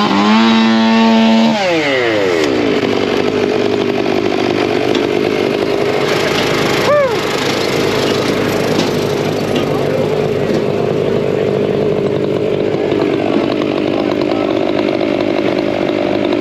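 Two-stroke chainsaw held at full throttle, then dropping back toward idle about a second and a half in, over the steady drone of other small engines running. A quick rev blip about seven seconds in.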